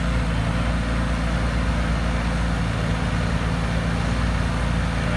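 Wacker Neuson 803 mini excavator's diesel engine running steadily at an even, unchanging speed.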